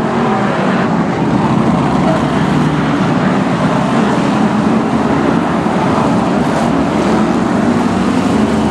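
Several BriSCA F1 stock cars' big V8 engines running hard in a race. The result is a loud, continuous engine drone whose pitch wavers up and down.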